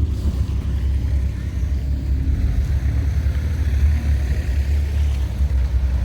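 Wind buffeting the microphone: a loud, fluttering low rumble.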